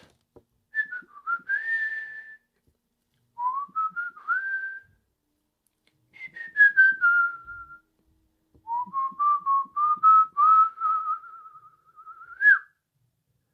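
A man whistling a free tune with his head resting on a cardboard box, in four short phrases that glide up and down. The last phrase is the longest, mostly held on one note, and ends with a quick upward flick.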